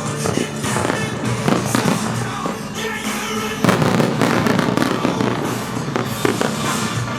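Fireworks shells bursting in quick succession over loud music, with one stronger bang a little past halfway.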